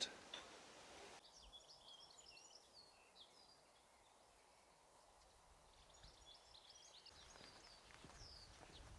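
Faint birdsong: quick, short chirping notes in two spells, the second starting about six seconds in, over a low outdoor hiss.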